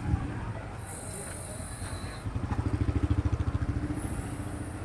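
A motorbike engine passing close, louder and pulsing from about halfway in, then fading, over steady street traffic noise.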